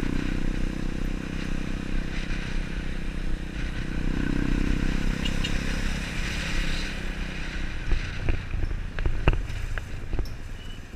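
A motorcycle engine running steadily, then several sharp clicks and knocks in the last few seconds.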